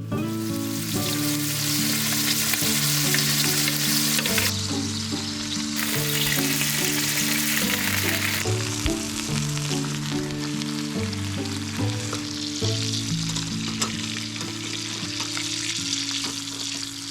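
Food sizzling as it fries in a pan, with soft background music of held low notes underneath.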